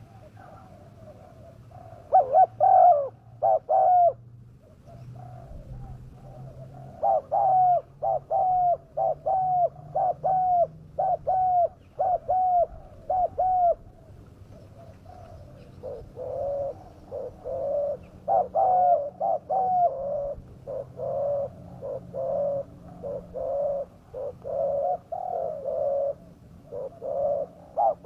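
Spotted dove cooing in runs of short repeated coos, starting about two seconds in, with a short break around the middle. It is a fierce tekukur call used as a lure to bring wild doves down.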